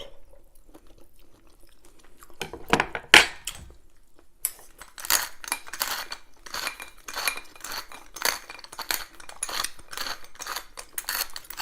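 Cutlery clinking and scraping against a plate of food: a few sharp clinks about three seconds in, then a busy run of rapid clicks and scrapes from about halfway.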